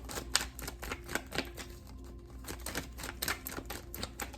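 A deck of oracle cards being shuffled by hand: irregular sharp clicks and slaps of cards against each other, several a second.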